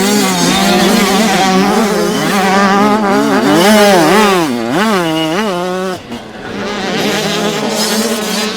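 Several youth motocross bikes' engines revving hard together, their pitch rising and falling as the throttles open and close, with one engine holding a steady note. The sound breaks off abruptly about six seconds in, then picks up again.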